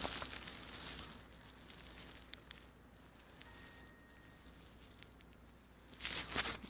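Faint rustling and crackling with a few light clicks about two seconds in, then a short louder rustle about six seconds in.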